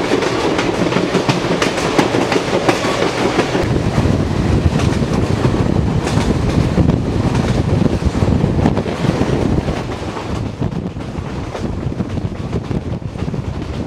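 Passenger train running along the track, heard from on board: a steady rumble and rush of air with many irregular clicks and knocks from the wheels, easing off a little near the end.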